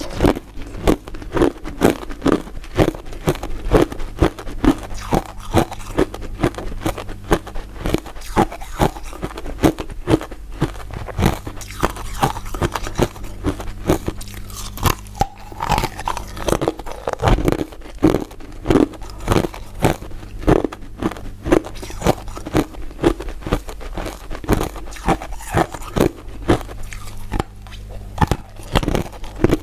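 Close-up crunching and chewing of crisp crystal ice dessert pieces: sharp cracks and crackles repeating about two to three times a second, over a faint steady low hum.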